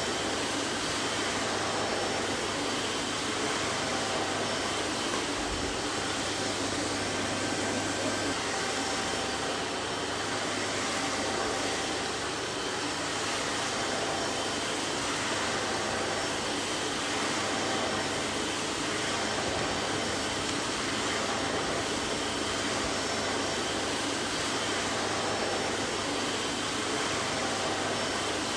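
Vacuum cleaner running steadily: an even rushing hiss of air with a low motor hum underneath, unchanging throughout.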